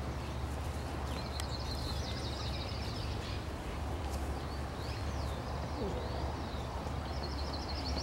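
Small birds singing high in the scrub: a fast run of repeated notes, then a few wavy whistled notes, over a steady low rumble.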